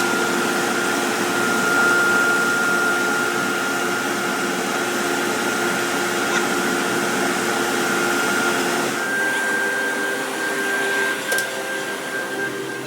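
Steady industrial machine noise with a high whine, the kind heard in a brake-drum works; about nine seconds in the whine steps up in pitch and the noise thins, with a sharp tick shortly after.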